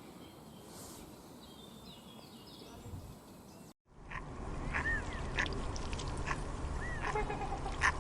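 Faint outdoor ambience with a few thin, high bird chirps. About four seconds in it cuts to louder waterfowl calling: a rapid series of short quacking and honking calls, several overlapping.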